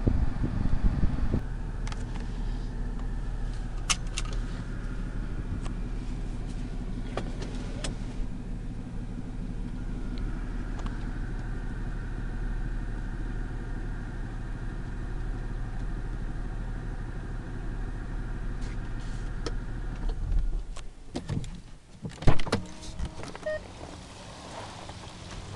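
Supercharged 3.0-litre V6 of a Jaguar XJL idling steadily, heard from inside the cabin as a low even hum. About twenty seconds in the hum falls away and a few clunks and knocks follow as the car door is opened.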